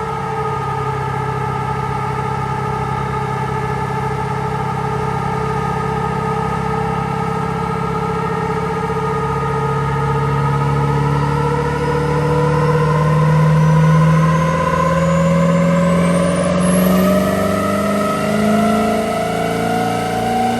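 Pickup truck engine held under load on a chassis dyno, its revs climbing slowly and steadily through a long pull, with a high whine rising sharply in pitch partway through.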